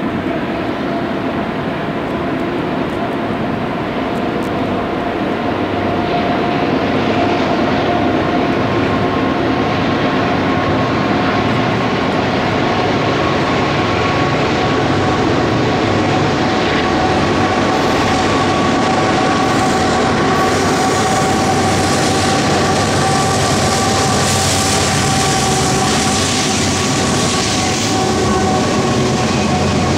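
Union Pacific freight train passing, led by diesel locomotives and followed by a long string of autorack cars rolling by, with a steady rumble and a high steady whine over it. The noise grows louder about six seconds in as the train draws near.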